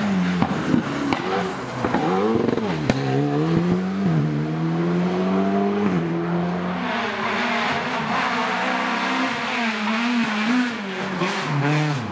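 Rally car engine under hard acceleration, its pitch climbing and dropping repeatedly as it is driven through the gears.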